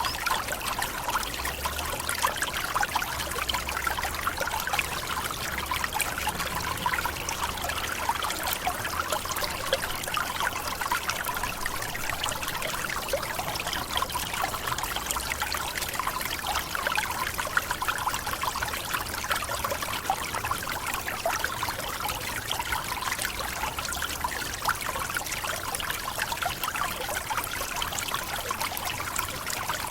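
Forest waterfall: water pouring and splashing steadily, a continuous rushing hiss with a faint low rumble underneath.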